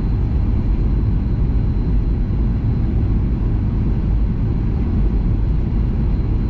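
Steady low rumble of a Boeing 737 MAX 8 airliner heard from inside the cabin: the CFM LEAP-1B engines and airflow, even throughout, with a faint thin high tone above it.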